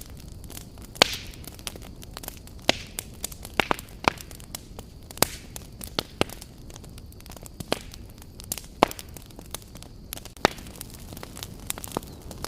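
Wood campfire crackling: sharp pops at irregular intervals, about fifteen of them, the loudest about a second in, over a low steady hiss.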